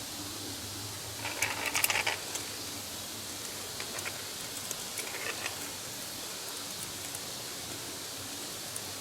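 Cutlery scraping and clinking against a dish in two short bursts, about a second in and again around the middle, over a steady hiss.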